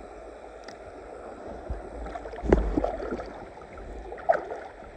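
Muffled water sloshing around a wading angler's legs, heard through clothing, with a sharp knock about two and a half seconds in.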